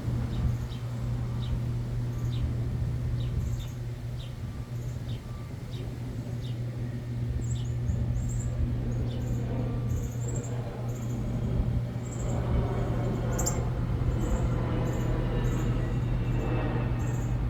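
Small birds chirping: short high chirps repeated irregularly throughout. Beneath them run a steady low hum and a background rumble like traffic, which swells from about two thirds of the way in.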